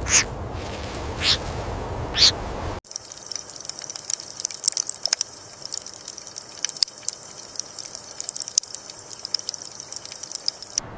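Wild animal sounds in two parts. First, two short, sharp high calls over a rushing background. About three seconds in, an abrupt cut leads to a quieter, busier ambience of many quick high chirps and ticks.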